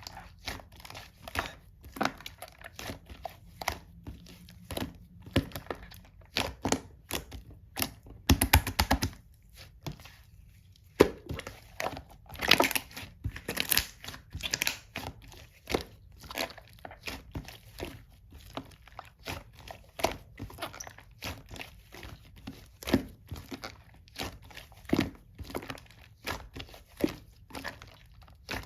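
Slime being squished and pulled by hand, giving a dense, irregular run of small crackling clicks and pops, thickest about a third and halfway in.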